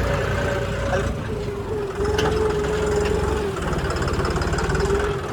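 An engine running at a steady speed: a low rumble with a steady mid-pitched whine over it.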